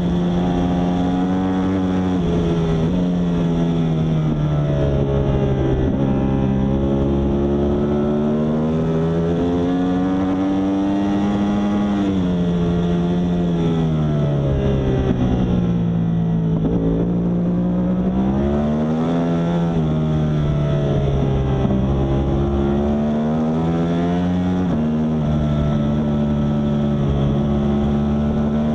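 Yamaha R1 superbike's inline-four engine at racing speed, its note rising and falling continuously with throttle and gear changes. It drops to its lowest pitch about halfway through, then climbs again.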